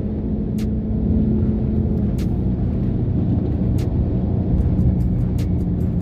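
Car engine running with a steady low rumble, with sharp clicks over it that come faster near the end.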